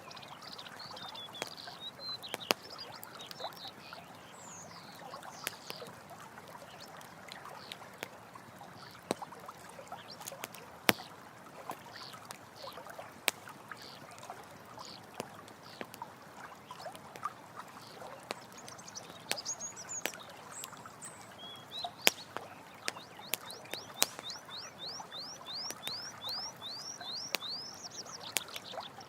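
Campfire crackling with sharp, irregular pops over the steady rush of running water. Birds chirp throughout, with a fast run of chirps near the end.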